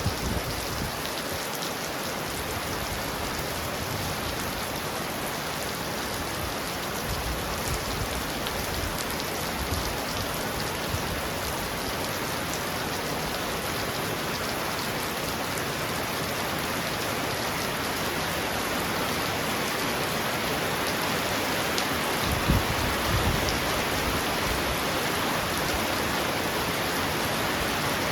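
Heavy rain falling steadily on a roof, a dense, even hiss of drops. A brief low rumble comes about three quarters of the way through.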